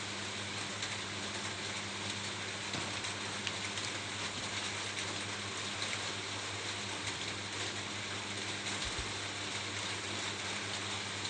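Steady rain falling on a roof: an even hiss of rainfall dotted with many small ticks of individual drops.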